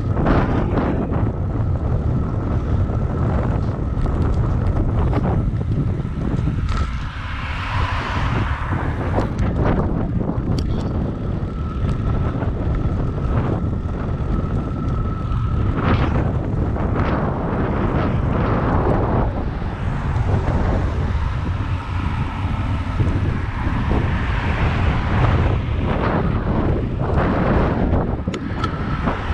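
Wind rumbling on the microphone of a moving bicycle, over the steady noise of city traffic.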